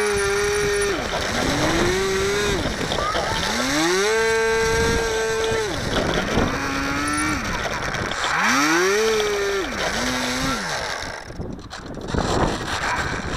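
Electric motor and propeller of a HobbyZone Firebird Delta Ray RC plane revving up and down in about five throttle bursts, each whine rising, holding and then falling away, with wind rushing over the microphone throughout.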